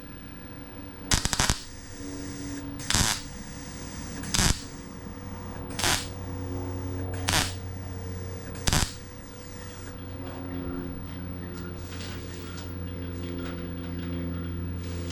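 Six short MIG tack welds crackling on sheet-metal car body panel, about a second and a half apart, the first the longest, over a steady low hum.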